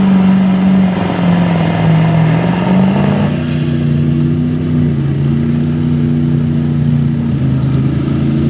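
Pulling truck's engine running hard, its pitch stepping down and up several times. A high whine drops away about three seconds in as the engine eases off.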